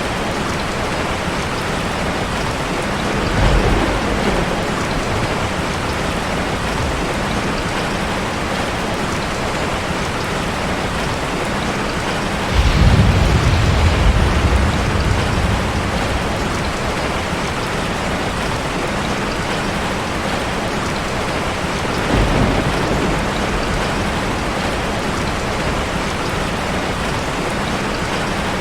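Fireplace-and-waterfall ambience: a steady, full rush of cascading water. Deep low rumbles swell up about three seconds in, about twelve seconds in (the loudest, lasting a couple of seconds) and again about twenty-two seconds in.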